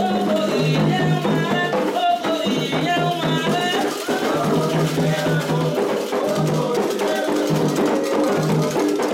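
Candomblé ritual music: voices singing a chant over hand drums and rattles, in a steady rhythm.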